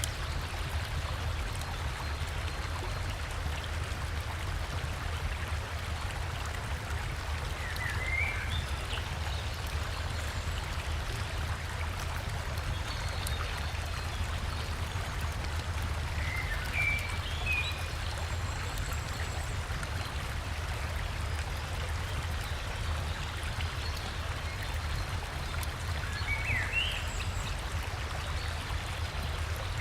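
Steady rush of a flowing river and waterfall, with a bird giving short, rising chirps three times, roughly every nine seconds.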